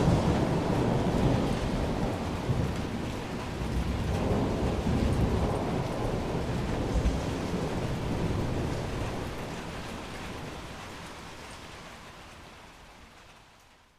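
Rolling thunder rumbling over steady rain, the rumble fading gradually through the second half until it has almost died away at the end.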